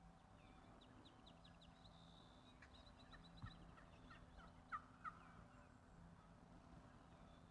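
Wild turkey gobbling, faint: a rapid run of short rattling notes, loudest about five seconds in.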